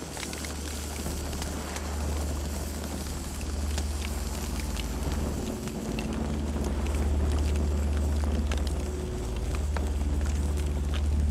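Campfire crackling, with sharp pops scattered irregularly throughout over a steady low rumble.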